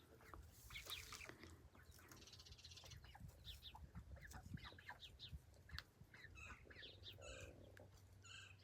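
Young Delaware chickens peeping and chirping faintly: many short, high, downward-sliding chirps, with a few clearer pitched calls near the end.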